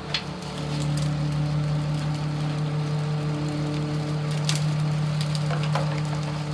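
Garbage truck's 7.2-liter diesel engine running with a steady drone that gets a little louder about half a second in, with scattered light clicks and crackles over it.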